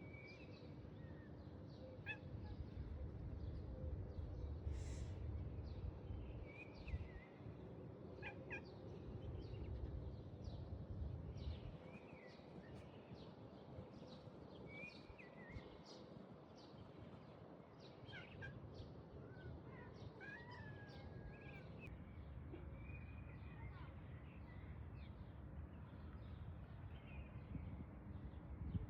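Birds chirping with short scattered calls, over a faint low rumble like wind on the microphone.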